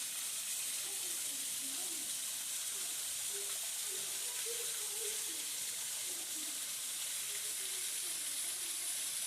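Small garden waterfall with water splashing down steadily, a constant bright hiss.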